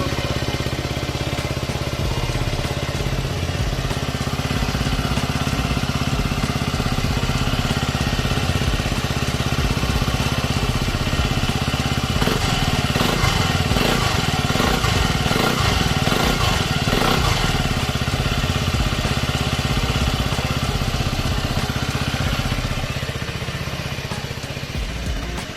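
Suzuki Skywave scooter engine running steadily through its reworked muffler, with a few throttle blips that raise and drop the engine speed around the middle.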